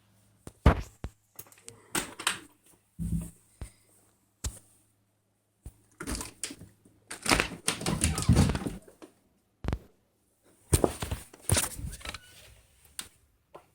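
Irregular crunching and scuffing of steps through deep fresh snow, with a few longer crunching bursts.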